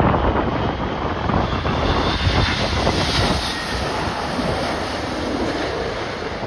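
Storm-force wind buffeting the microphone, with a jet airliner's engine noise swelling and passing about three seconds in.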